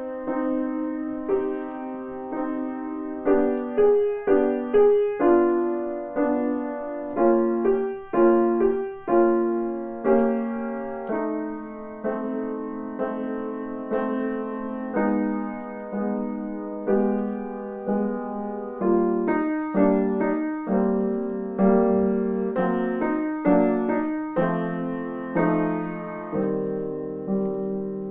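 Solo piano playing a slow classical piece: a melody of struck notes, each fading away, over lower accompanying notes at a steady, unhurried pace.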